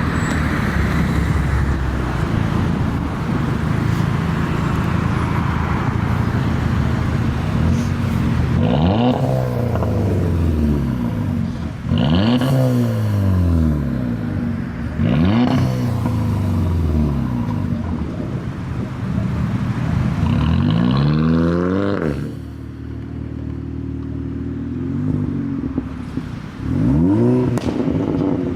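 Car engine running with road noise, then revved about five times, each rev rising quickly in pitch and falling back, the last near the end.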